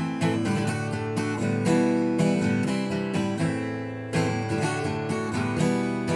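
Acoustic guitar strummed in a repeating strumming pattern, the chords changing a few times.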